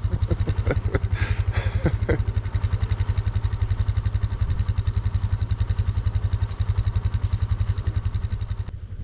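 Four-wheeler (ATV) engine idling steadily with an even, rapid low pulse, with a few short higher sounds about a second in.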